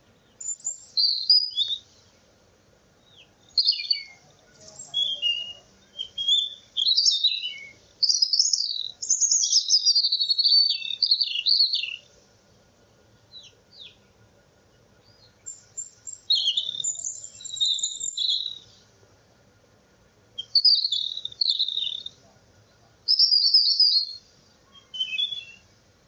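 A songbird singing in phrases of quick, high, varied chirps and trills, each lasting one to four seconds, with short pauses between them.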